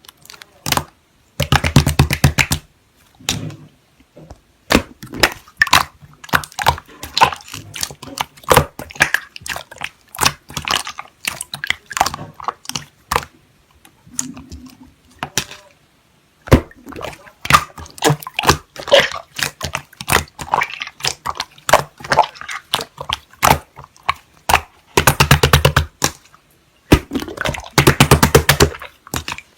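Slime being squeezed and pressed by hand, giving irregular clicks and pops, with two stretches of fast crackling, one near the start and one near the end.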